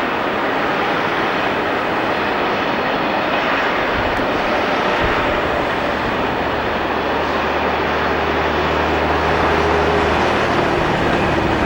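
Diesel train engine running over a steady rushing noise. A low engine hum comes in about four seconds in and grows stronger in the second half.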